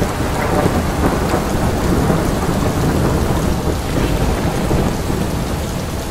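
Steady rain with a low rolling thunder rumble.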